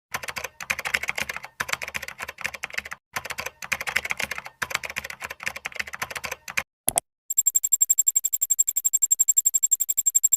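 Computer-keyboard typing clicks in quick bursts separated by short pauses, then, about seven seconds in, a fast even run of ticks with a thin high tone over it.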